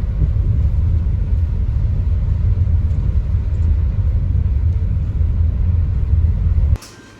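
Loud, steady low rumble that cuts off suddenly near the end.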